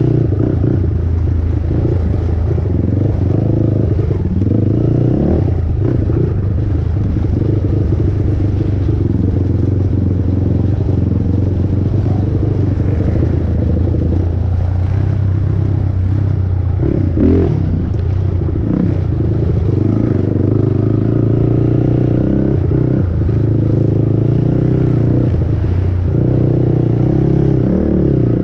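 450R sport ATV's single-cylinder four-stroke engine running hard under racing load, its pitch rising and falling with the throttle, along with clattering from the quad over rough ground. A single sharp knock sounds about two-thirds of the way through.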